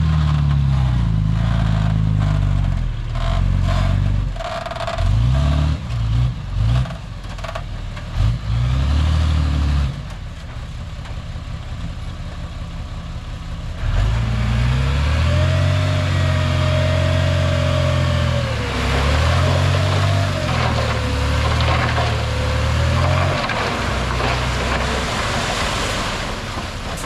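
Heavy diesel engine of earthmoving machinery revving up and down under load, its pitch rising and falling again and again. After a quieter stretch of a few seconds it comes back loud about halfway through, with a wavering whine riding over the engine.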